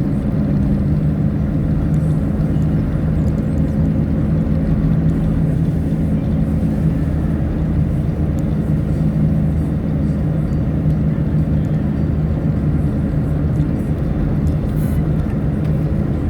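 Car engine and tyre noise while driving, heard from inside the car: a steady low hum with an even road rumble that stays constant throughout.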